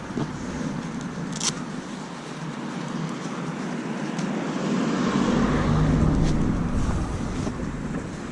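Motorcycle riding noise: wind rushing over the microphone with the Triumph Bonneville America's engine running underneath, swelling louder for a couple of seconds past the middle, then easing.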